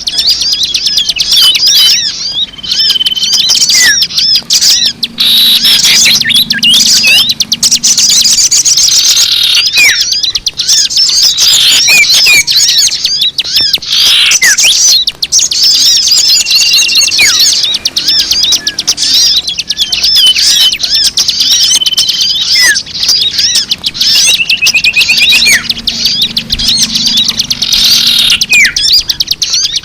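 Bird-lure recording of many small songbirds chirping and twittering at once, a dense overlapping chorus of quick high calls and trills. Short level whistles recur every several seconds.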